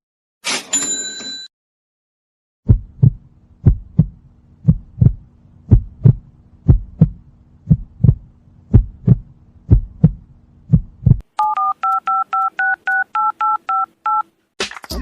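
A run of stock sound effects. It opens with the last ringing of a cash-register bell. After a short gap comes a heartbeat of paired low thumps, about one beat a second, lasting some eight seconds. It ends with a string of touch-tone telephone keypad beeps, two tones at once, about four a second.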